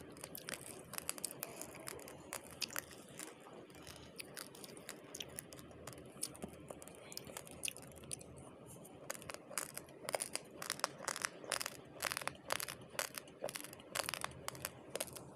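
Raw rice being chewed: a stream of crisp crunching clicks, sparse at first and coming thick and loud from about nine seconds in.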